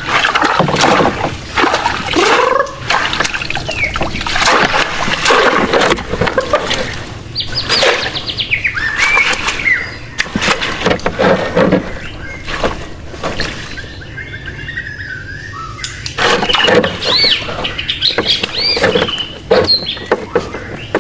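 Birds calling, with curved calls that rise and fall and repeat, among many sharp knocks and clatters.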